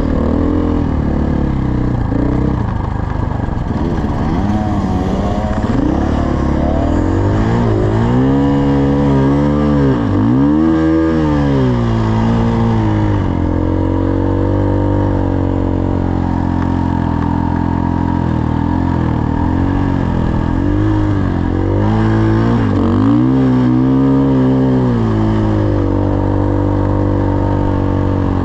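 Dirt bike engine running hard, revving up and down with the throttle as the bike rides along. Its pitch swoops sharply down and back up several times about a third of the way in, and again past two-thirds.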